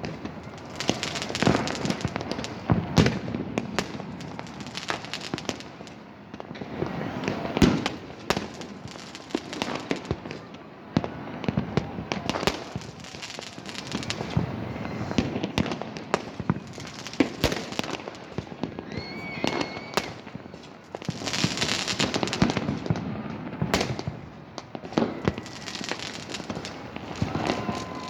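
Many fireworks and firecrackers going off at once: a continuous mix of overlapping bangs and crackling that swells and dips, with a brief whistle about two-thirds through.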